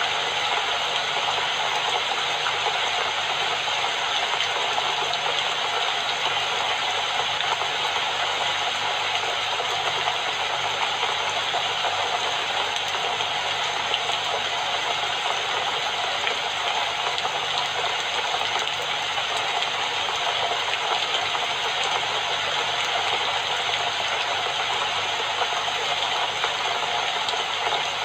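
Steady rain falling, an even hiss of drops with no breaks or changes in level.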